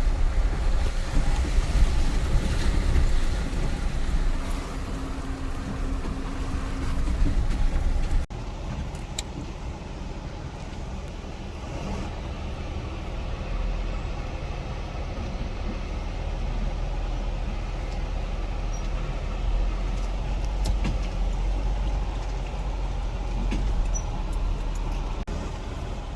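Vehicle driving, heard with a steady low engine and road rumble. About eight seconds in the sound changes suddenly to a quieter, steadier rumble with a few faint clicks.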